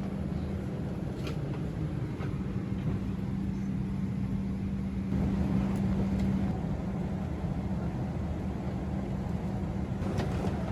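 Steady low rumble of a vehicle interior with a constant low hum and a few faint clicks.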